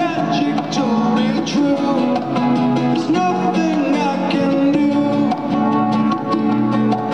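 Live band playing a song, with strummed acoustic guitar prominent in the mix.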